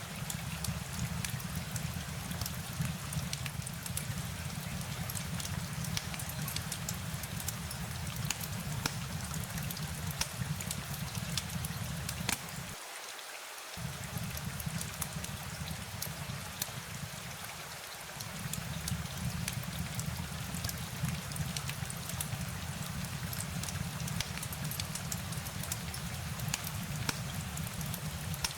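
Steady rain: an even hiss scattered with sharp drop ticks over a low rumble, which drops out for about a second near the middle.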